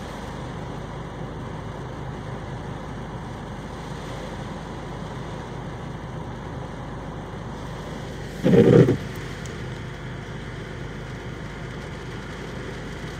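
Steady hum inside a parked car with the engine idling and the air conditioning running. About eight and a half seconds in there is a brief, louder low sound lasting about half a second.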